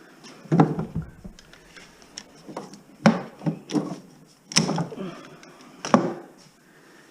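Irregular knocks and clatters of hand work on a stripped house's framing and wiring, about eight in all, with sharp ones near the start and near the end.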